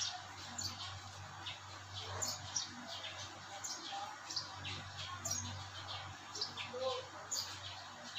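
Small birds chirping: many short, high chirps repeated irregularly, over a faint low steady hum.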